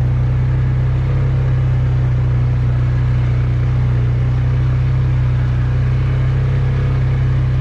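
An engine running steadily at a constant speed, a loud, even low hum that neither rises nor falls.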